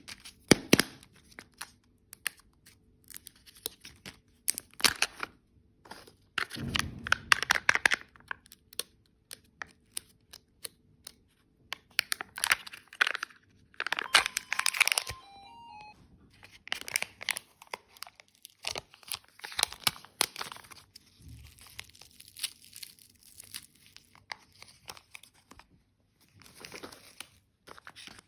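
Plastic candy wrappers being torn open and crinkled by hand, in irregular bursts of rustling with sharp clicks.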